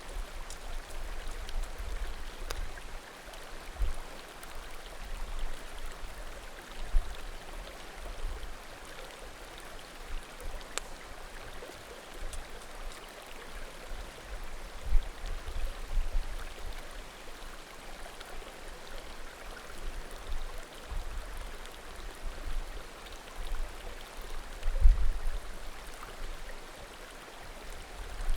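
Small mountain creek babbling steadily, with a few faint crackles and pops from burning firewood. Irregular low thumps rise above it now and then, the strongest near the end.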